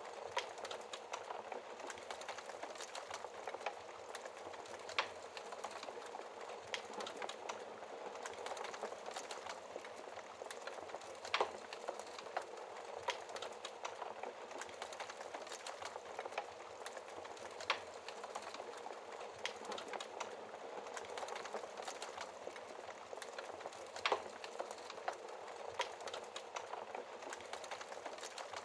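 Wood fire burning in a fireplace: a steady hiss with frequent small crackles and a louder pop every few seconds.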